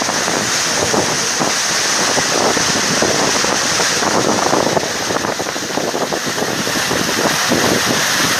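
A vehicle travelling on a rough, rain-damaged dirt road, with wind buffeting the microphone and many small knocks and jolts throughout.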